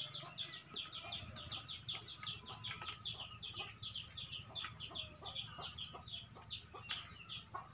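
Birds chirping continuously in a rapid run of short, high notes, several a second.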